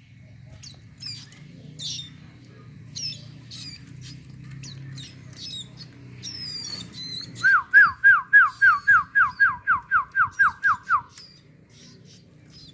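Small caged songbirds chirping with short high calls. About seven seconds in, one gives a loud run of about fourteen quick downward-sliding whistled notes, some four a second, that stops after three and a half seconds. A low steady hum runs underneath for the first half.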